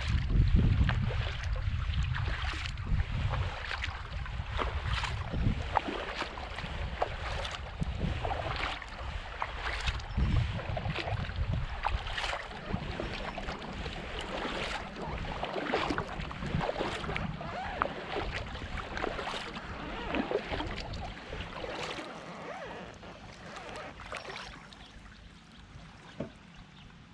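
Kayak paddle strokes splashing and dripping water, with wind rumbling on the microphone in the first few seconds. The splashing grows fainter near the end.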